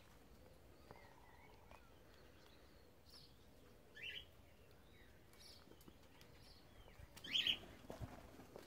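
Cockatiels giving a few short, faint chirping calls, spaced out, with the loudest one about seven and a half seconds in.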